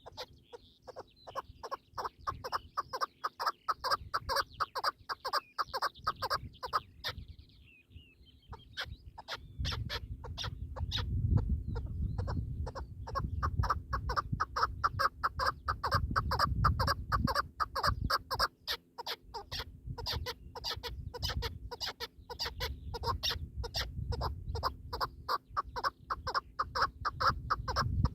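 Partridge calling in a long, rapid run of clucking notes, with a brief break about a quarter of the way through. A low rumble sits underneath from about a third of the way in.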